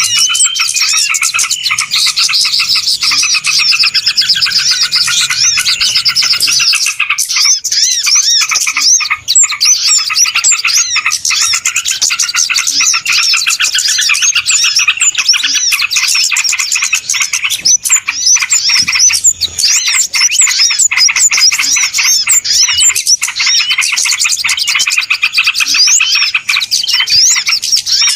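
Bird-lure call of a noisy flock of small birds: dense, rapid chirping and twittering with no pause, the kind of busy flock sound played to draw small birds in.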